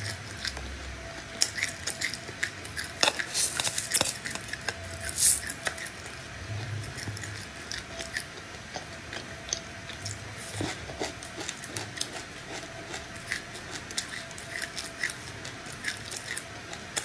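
Close-miked chewing of seeds: an irregular stream of crisp crunches and small clicks from the mouth.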